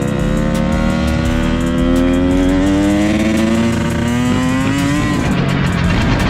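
Dirt bike engine pulling hard in one gear, its pitch climbing steadily for about five seconds, then dropping suddenly as the throttle comes off or it shifts.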